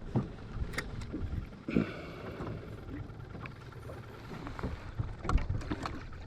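Scattered light knocks and handling noises over a low wind rumble on the microphone, with a few stronger bumps about five seconds in.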